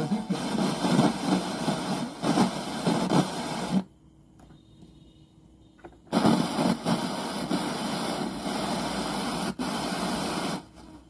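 Radio static hissing and crackling from the Sony CFS-515S radio cassette player's speaker, with no station tuned in. It cuts out for about two seconds in the middle, then comes back.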